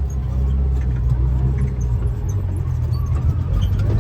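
Kawasaki six-seat side-by-side UTV running at a steady pace on a dirt trail, heard from inside its enclosed cab as a steady low drone.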